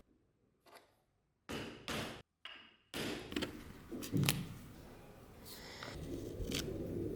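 Workshop handling noise: a few short knocks and taps with scraping in between. It comes in brief clips separated by sudden drops to silence in the first three seconds, with the loudest knock about four seconds in.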